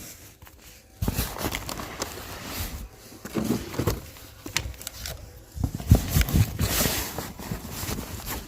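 Cardboard firework cake boxes being handled and moved about: irregular knocks, thumps and scraping, with the loudest pair of thumps about six seconds in.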